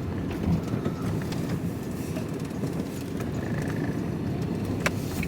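Van driving along, heard from inside the cab: a steady low rumble of engine and road noise, with one sharp click near the end.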